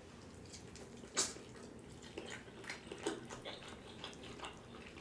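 Quiet wet mouth sounds of someone chewing food, small scattered clicks and smacks, with one sharper click about a second in.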